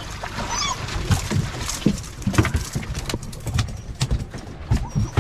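A small Spanish mackerel flapping on the boat deck: an uneven run of thumps and slaps.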